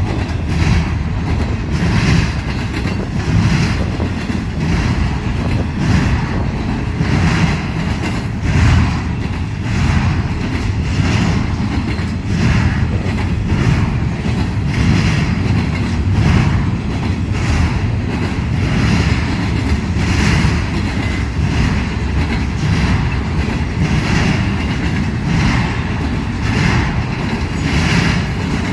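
Freight train rolling past, its cars' wheels clacking over the rail joints in a steady rhythm, about one clack every second and a bit, over a continuous low rumble.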